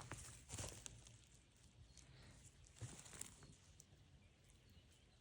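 A few faint footsteps crunching on forest floor litter, with a soft outdoor background between them.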